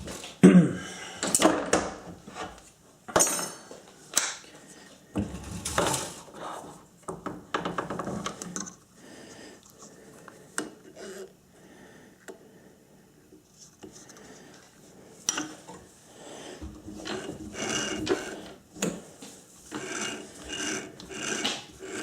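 Scattered metallic clinks, knocks and rattles of tools being handled at a metal lathe while a dial indicator is set up to check a workpiece face. The sounds thin out in the middle.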